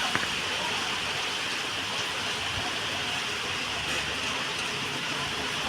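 Heavy rain falling steadily: a dense, even hiss, with a faint click or two of single drops.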